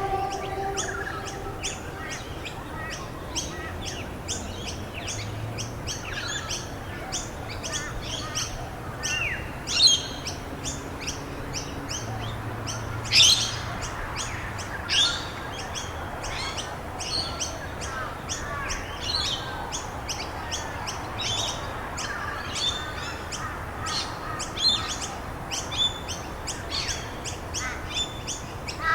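Many songbirds chirping and tweeting in a dense chorus of short, rapid calls, with a few louder calls standing out around ten and thirteen seconds in, over a steady background hiss.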